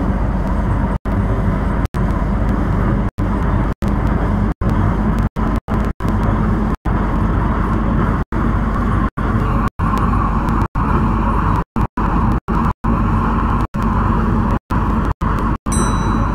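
MTR C-Train metro train running along the line: a steady rumble of wheels on rail and running gear, with a tone of around 1 kHz growing stronger partway through. The sound cuts out completely for split seconds over and over.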